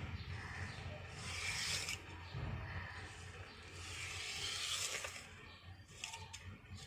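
Long, heavily oiled hair rustling as it is worked through during nit picking: two long rubbing strokes, about a second in and about four seconds in, over a low steady hum, with a few faint clicks near the end.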